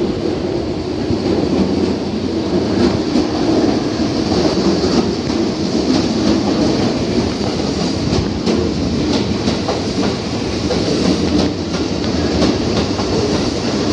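Train running on the tracks alongside a station platform, a steady rumble with its wheels clicking over the rail joints.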